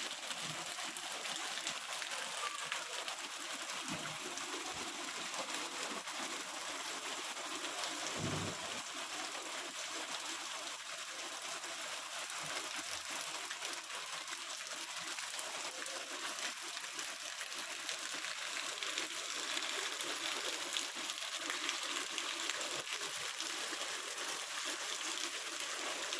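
Heavy rain and running water: a steady, even rushing hiss.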